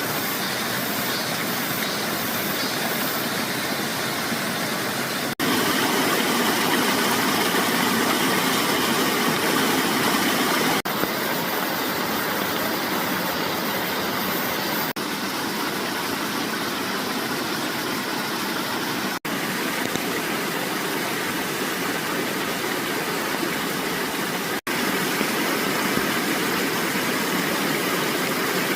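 Mountain stream rushing over rocks, a steady loud rush of water that drops out briefly every few seconds and resumes at a slightly different level.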